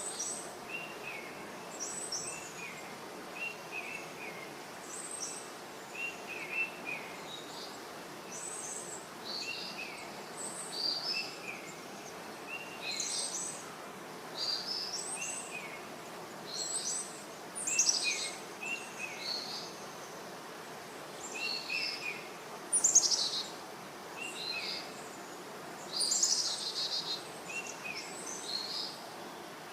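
Small birds chirping and singing in short, high, repeated phrases, a few every couple of seconds, over a faint steady background hiss.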